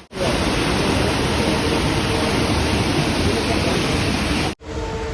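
Loud, steady rush of falling water from a waterfall, cutting off suddenly near the end.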